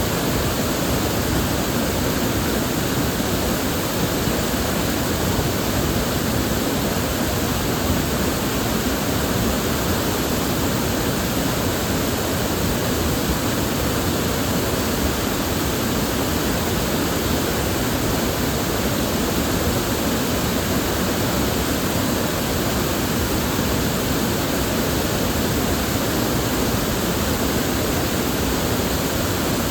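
River water flowing and rushing steadily over rocks, a dense even wash of sound with no breaks.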